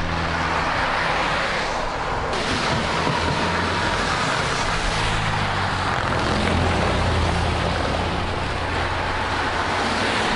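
Highway motor traffic passing close by, heard from a moving bicycle, under a steady rush of wind on the microphone.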